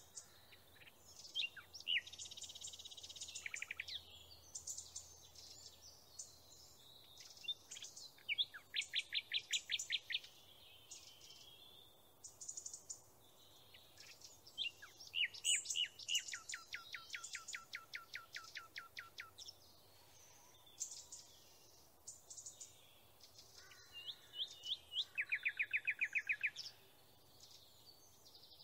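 Songbirds singing: scattered high chirps and several fast trills of rapidly repeated notes, the longest falling slightly in pitch.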